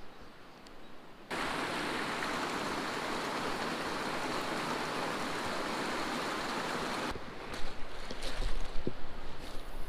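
Steady rush of fast-flowing water, cutting in suddenly about a second in and cutting off about seven seconds in. After it comes wind buffeting the microphone, with scattered knocks and bumps.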